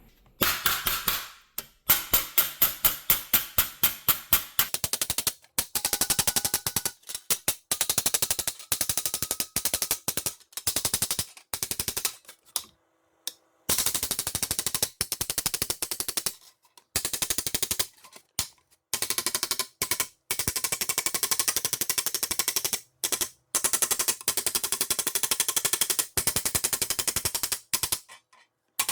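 Rapid series of sharp taps or impacts in bursts lasting one to a few seconds, with short silent pauses between them.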